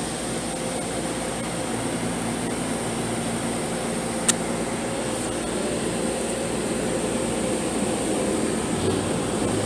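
Automatic car wash machinery running steadily, heard from inside the car, with a faint steady hum and a high tone; a single sharp click about four seconds in.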